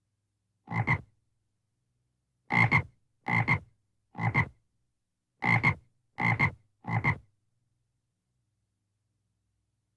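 Frog croaking: seven short croaks, each with a quick double pulse, coming about a second apart and stopping a little after halfway.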